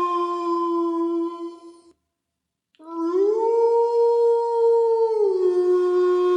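Wolf howling: one long steady howl ends about two seconds in, and after a short pause a second howl starts, rises in pitch, holds, then drops back to the lower note and carries on.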